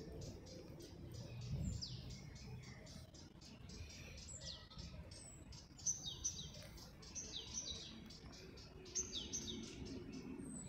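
Small songbirds chirping: short, sharp notes that sweep down in pitch, often in quick pairs, repeating every second or two.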